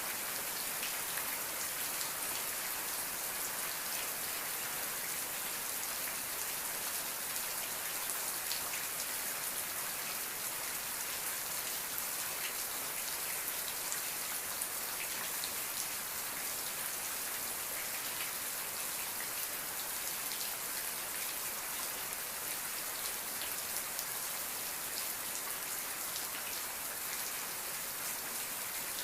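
Steady rainfall with fine patter of drops on a surface, even and unbroken with no thunder.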